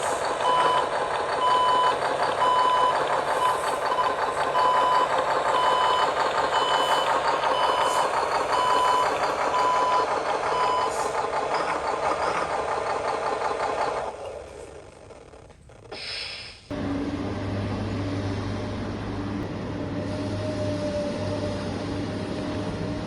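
Scale RC truck's electronic sound unit playing a simulated diesel engine with a reversing beeper, about one beep a second. The beeping stops about eleven seconds in, and the engine sound dies away a few seconds later. After a click, a different steady machine hum with a low drone takes over.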